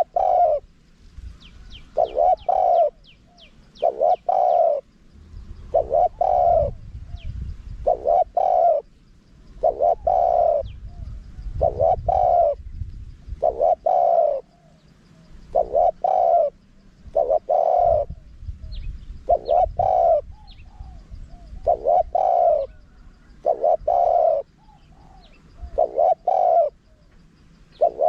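Spotted dove cooing over and over, each short phrase of a few coo notes coming about every two seconds, in the high-voiced wild call style that dove keepers play to lure wild doves. Faint high chirps of small birds sound near the start.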